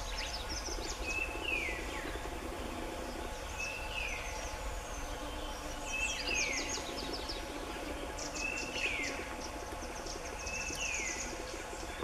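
Male scarlet minivet calling: a short whistle that drops away in a quick downward sweep, given five times about every two and a half seconds. Another bird's high, quick notes and a steady insect buzz run underneath.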